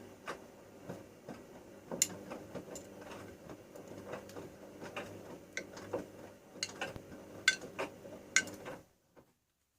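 Bauknecht Super Eco 6413 front-loading washing machine turning its drum during a wash: a steady motor hum with irregular clicks and clacks from the tumbling load. Everything stops about nine seconds in.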